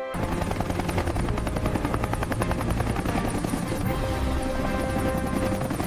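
Helicopter rotor chopping steadily at a rapid even beat, starting suddenly at full loudness.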